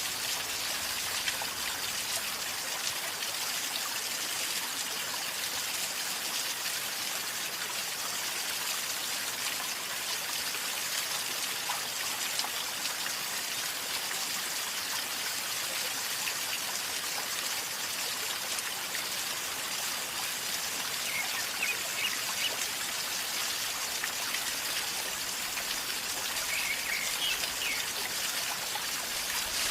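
River water flowing calmly with a steady gurgle, with a few faint short high chirps late on.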